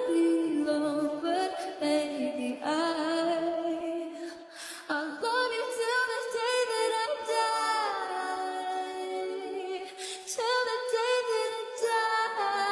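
Background music: a cappella vocal harmonies, several voices holding long sung notes without a beat or bass.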